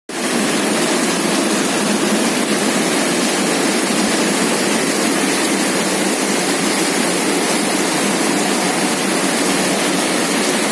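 Heavy rain pouring down steadily, a loud, even hiss with no thunderclap.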